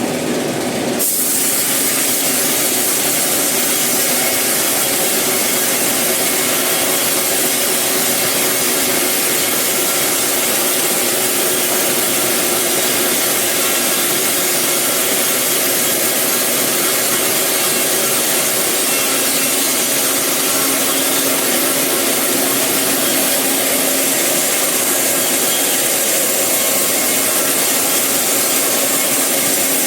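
Sawmill saw cutting through eucalyptus wood: a loud, steady sawing noise with a faint whine of the blade running through it. The sound changes about a second in and then holds steady.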